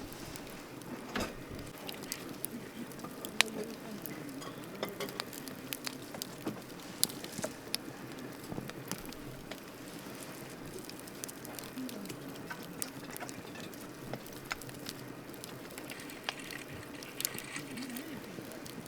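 Wood campfire burning, with irregular crackles and sharp pops over a steady hiss; the loudest pops come about three and seven seconds in.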